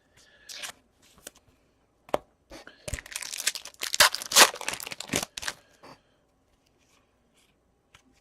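A hockey card pack's wrapper being torn open and crinkled, in a burst of ripping and rustling that builds over about three seconds and then stops, after a few small rustles.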